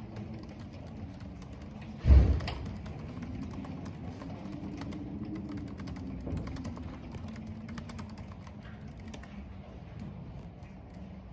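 Computer keyboard typing: irregular light key clicks over a steady low hum and a wavering wind sound. About two seconds in there is one loud, low thud.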